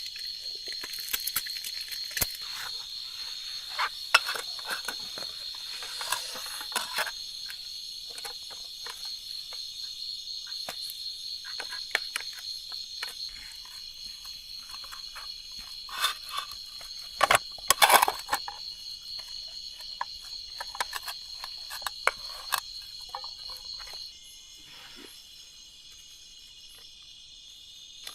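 Night insects, crickets among them, keeping up a steady high-pitched chirring trill, one of the voices stopping about three quarters of the way through. Scattered sharp clicks and knocks sound over it, the loudest cluster a little past the middle.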